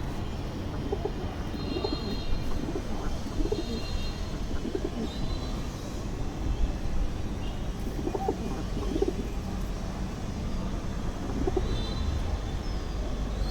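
Domestic pigeons cooing, short low coos repeating every second or two, with a few higher chirps over a steady low background rumble.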